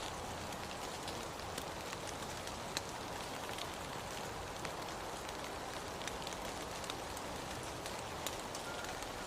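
Steady rain falling, with scattered close drops ticking sharply over the even hiss.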